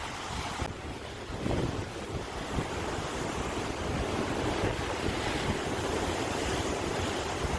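Sea waves washing against the shore in a steady, continuous wash, with wind buffeting the microphone.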